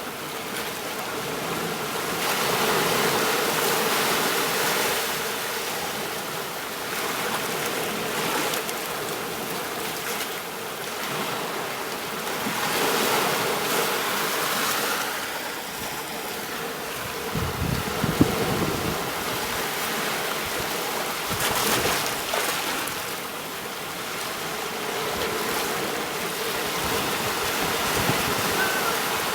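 Ocean waves breaking and washing on a beach, a steady surf that swells and ebbs every few seconds. A brief low rumble with a sharp knock about two-thirds of the way through, likely wind or handling on the microphone.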